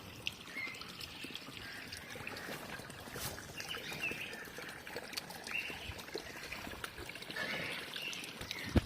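Birds giving short chirps every second or so over a trickling water sound, with scattered small clicks and a sharp knock at the very end.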